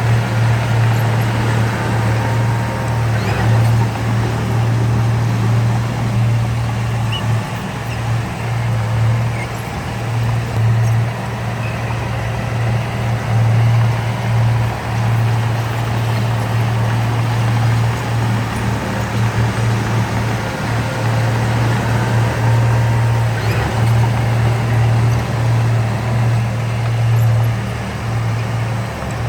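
Heavy earthmoving machine's diesel engine running steadily, a deep drone that rises and falls slightly in level.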